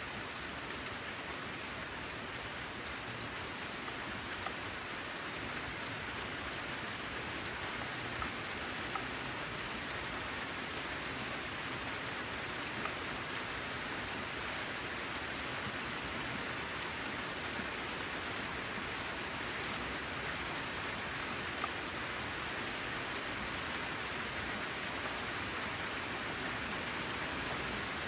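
Steady rain falling on a corrugated zinc roof, an even hiss with a few louder single drop ticks scattered through it.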